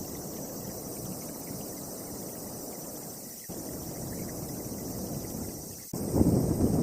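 Storm wind blowing in gusts. The sound cuts abruptly about three and a half seconds in and again near the end, and it is louder after the second cut.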